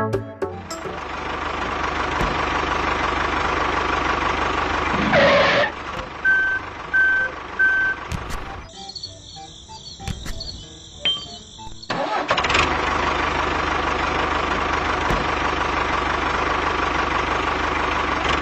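A motor running steadily, with a short loud burst and then three short beeps in the middle; it breaks off briefly and starts again.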